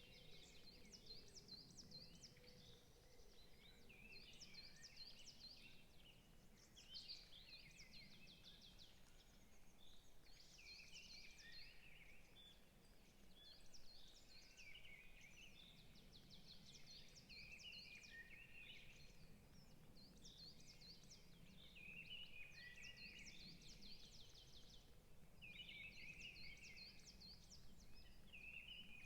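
Faint forest birdsong: several birds singing over one another in short phrases of rapid chirps and trills, over a low steady background rumble.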